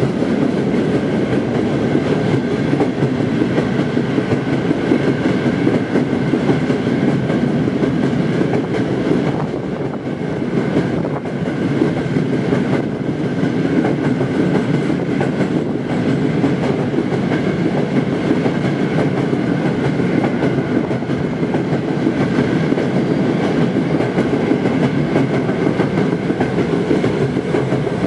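Steady rolling rumble of a freight train's open coal wagons passing close by, steel wheels running over the rails.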